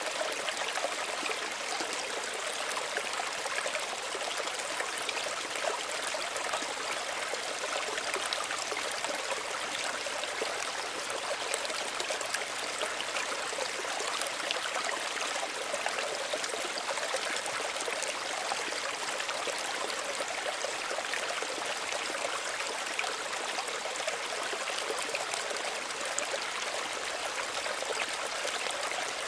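Small stream running over stones, a steady water babble with fine trickling.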